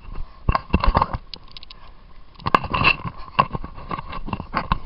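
Footfalls and handling noise from a camera carried while running: irregular thuds, knocks and rustles, in two busy clusters about a second in and again near the three-second mark.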